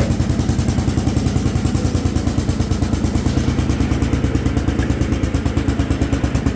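Allis-Chalmers B210 garden tractor's engine running steadily under load while the tractor drives slowly in gear, with an even, rapid exhaust beat.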